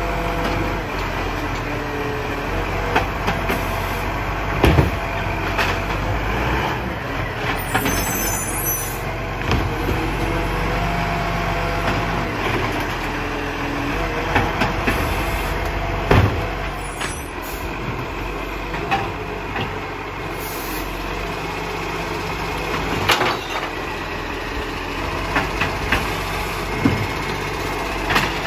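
Recycling collection truck running steadily, with several sharp clunks and a couple of brief hisses.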